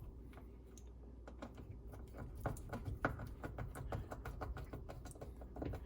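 Faint, quick irregular clicking of a screwdriver working a screw out of a dishwasher's plastic impeller cover in the sump, starting about a second in and running several clicks a second.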